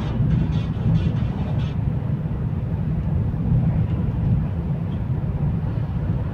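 Steady low rumble of a high-speed train running, heard from inside the carriage, with a few faint clicks in the first two seconds.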